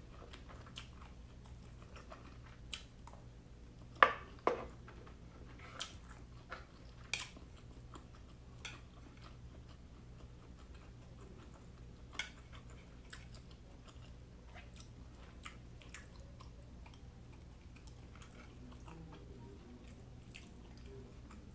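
Close-miked chewing and biting of steamed siomai: scattered wet mouth clicks and smacks, the loudest a pair about four seconds in, thinning out later. A steady low hum lies underneath.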